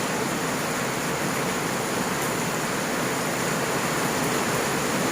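Steady rain pouring down, an even hiss without a break.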